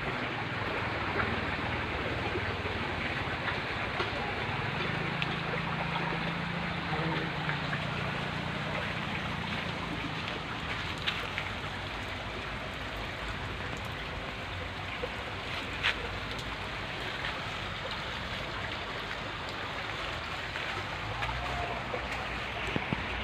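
A Mitsubishi Canter truck's engine running under a steady rushing noise. Its low hum grows stronger from about five to ten seconds in, then eases off.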